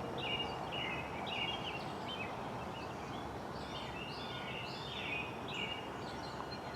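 Small birds chirping over and over, short calls about twice a second, over a steady rushing background noise.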